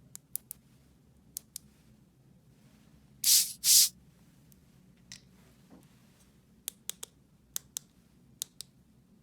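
Small hard plastic toy pieces clicking as they are handled, mostly in quick pairs of clicks. Two short, loud bursts of rustling or hissing noise come about three seconds in.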